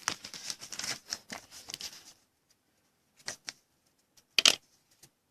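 Trading cards and their plastic packaging being handled: rustling and crinkling for about two seconds, then a few short, sharp clicks and taps.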